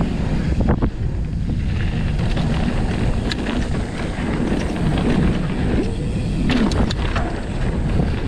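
Wind buffeting the microphone of a camera riding on a mountain bike going downhill on a dirt trail, with a steady low rumble and sharp clicks and knocks of the bike over bumps about a second in and twice more later.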